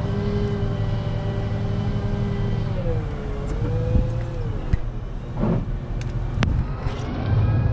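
Diesel engine of a rubber-tyred wheel loader running steadily, its pitch dipping and rising about three seconds in as it is worked. A few sharp knocks come near the middle and later.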